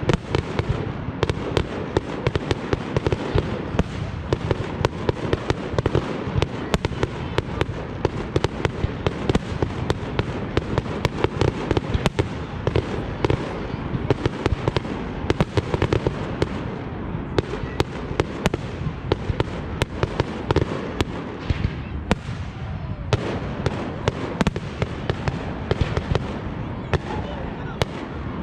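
Fireworks display going off continuously: a dense, unbroken barrage of sharp cracks and bangs over a steady rumble of bursting shells.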